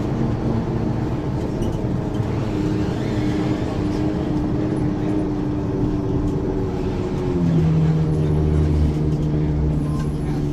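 Diesel engine of a 1994 Ikarus 435 articulated bus with a ZF gearbox running steadily under way. About seven seconds in, its note changes to a lower, louder drone.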